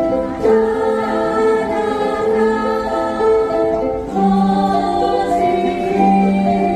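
A ukulele ensemble strumming while a group sings in unison, long held sung notes over the plucked chords.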